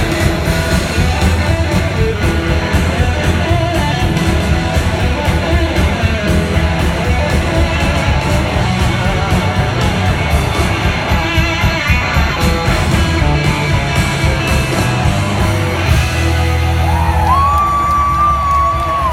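Live rock band playing, electric guitar over bass and drums, with a long high note held near the end.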